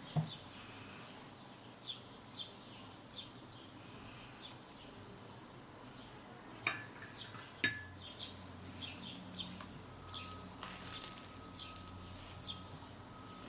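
Small birds chirping over and over in the background, with two sharp clinks of dishes or glass close together about halfway through; a faint steady hum and tone come in during the second half.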